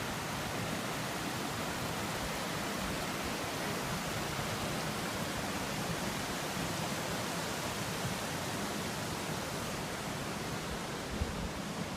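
Steady, even rushing noise with no tone or rhythm.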